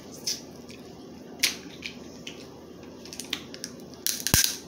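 Crab leg shells cracking and snapping by hand: scattered sharp cracks, with a louder burst of cracking near the end.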